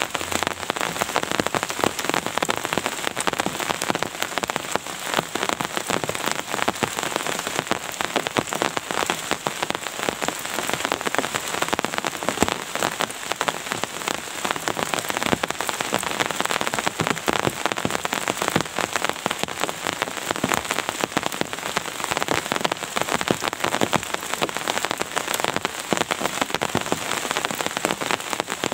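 Steady rain falling on a surface: a dense, even patter of drops that neither builds nor lets up.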